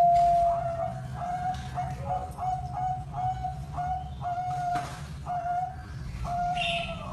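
Zebra dove (perkutut) cooing: a longer note, then a run of short, clipped notes at one steady pitch, about two a second. A steady low hum runs underneath.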